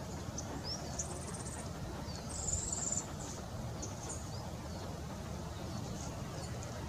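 Small forest birds giving high, thin chirps and short call notes, with two short buzzy trills, the louder one about two and a half seconds in, over a steady low background rumble.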